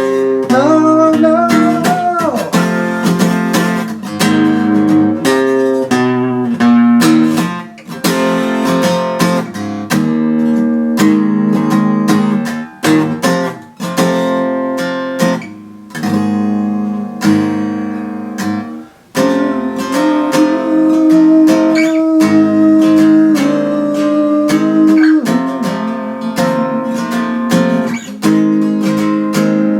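Acoustic guitar being strummed and picked through a rock song, chords ringing with a few brief breaks.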